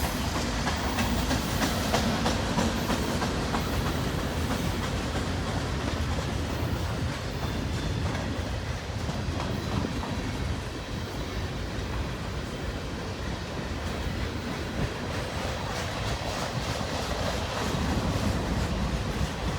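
Freight cars of a long mixed manifest train rolling past, a steady rumble of steel wheels with repeated clicking over the rail joints.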